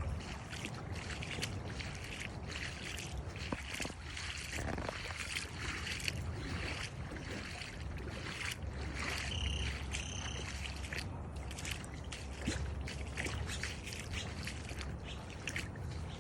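Floodwater trickling and splashing, with many small clicks and a low rumble underneath. Two short high tones sound about nine to ten seconds in.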